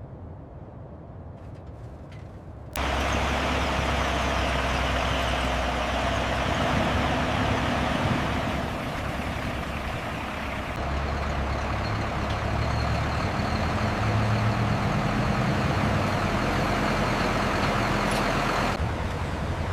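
A heavy vehicle's engine running loud and steady with mechanical noise, cutting in abruptly about three seconds in after a quieter stretch.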